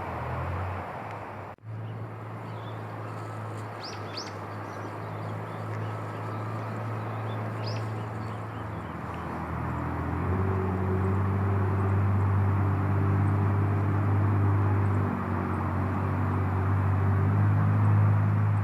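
A few short, high bird chirps over a steady low mechanical hum, which grows louder and fuller about halfway through.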